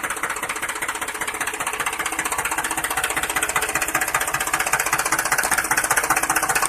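A motor running steadily with a fast, even clatter, like a small engine knocking over at a constant speed.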